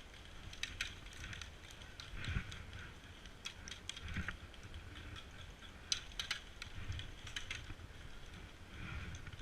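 Scattered light clicks and rattles, with a few soft thumps over a faint hiss.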